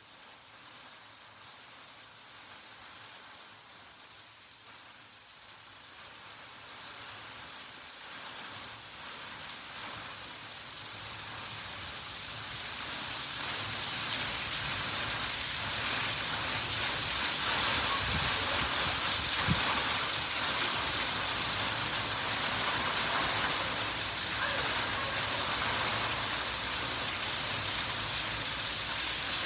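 Steady rain falling, a continuous even hiss that grows louder over the first fifteen seconds or so and then holds steady, with a single brief low thump about two-thirds of the way through.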